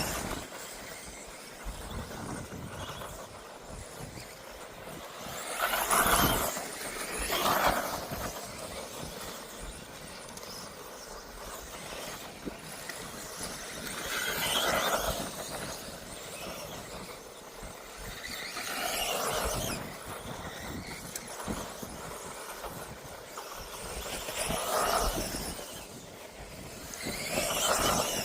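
1/10 scale electric 2WD off-road RC buggies whining around the track, their motor and drivetrain noise swelling and fading as they pass, about six times.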